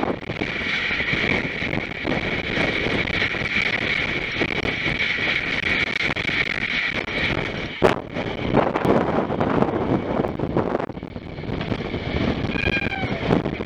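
Passenger train running at speed, with the rumble of wheels on track and wind buffeting the microphone. A steady high whine runs through the first eight seconds or so, and a single sharp click comes about eight seconds in.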